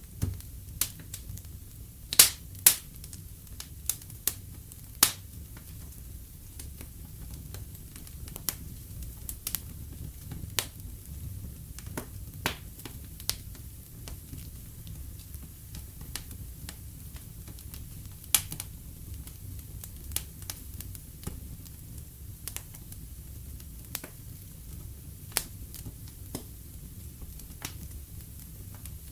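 Wood fire in a fireplace crackling: irregular sharp pops and snaps over a steady low rumble of the flames, with a cluster of louder pops about two seconds in and another loud pop past the middle.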